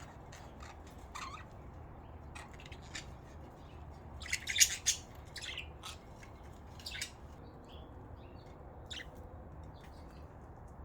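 Pet budgerigars chirping: short, scattered calls, with a louder cluster of squawky chirps about four seconds in.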